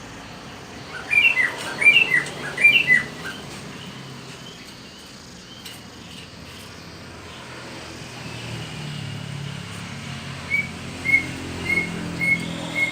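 Pet songbird calling: a quick cluster of sweeping chirps about a second in, then five short, evenly spaced notes near the end. A low hum builds in the background partway through.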